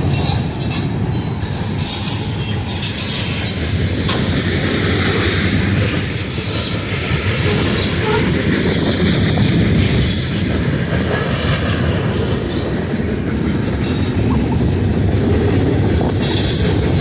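Freight train rolling past, a steady loud rumble of steel wheels on rail with short, intermittent high squeals from the wheels.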